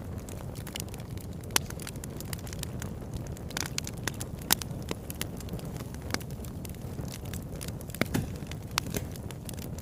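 Wood fire burning in a fireplace: a steady low rumble of flame with frequent, irregular sharp crackles and pops, a few of them louder than the rest.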